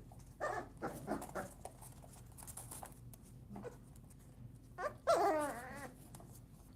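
Very young puppies whimpering: a few short squeaks in the first second and a half, then a louder, longer whine about five seconds in.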